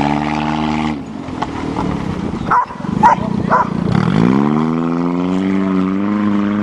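A 1992 Toyota Corolla's four-cylinder engine revving as the car accelerates, its pitch climbing at the start and then rising steadily again over the last few seconds. In the lull between, a dog barks three times in quick succession.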